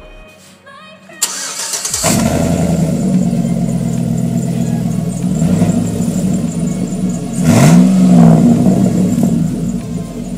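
A 2006 GMC truck's engine cranking and starting about a second in, then running steadily. Near the end it gives one brief rev that rises and falls.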